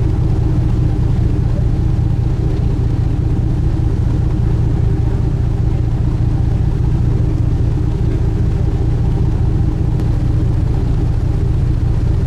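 A sightseeing boat's engine running steadily underway, heard on board as a loud, even low hum with no change in pitch.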